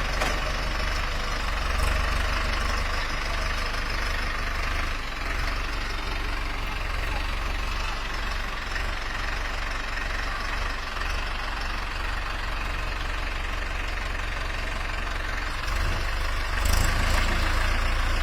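Engine of a tractor converted into a front loader, running steadily, with its low rumble growing louder near the end.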